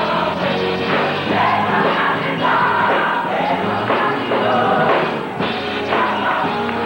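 A choir singing gospel music with instrumental backing.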